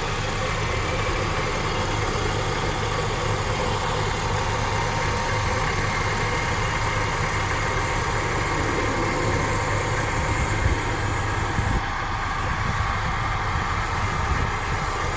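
2005 BMW X5 engine idling steadily with the A/C on and the compressor clutch engaged and turning with the pulley. The A/C compressor's bearings are worn and noisy, though with the A/C switched on their sound gets lower.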